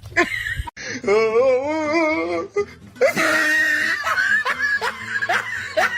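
A voice giving a long wavering call, then a quick run of short rising calls, about four a second, near the end.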